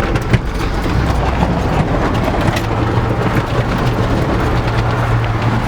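Truck driving: a steady engine drone under dense road noise with constant small rattles and knocks.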